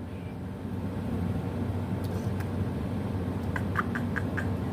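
Steady low background rumble, with a quick run of about five short, high chirps from an animal about three and a half seconds in. This is the incessant calling she takes for a squirrel's.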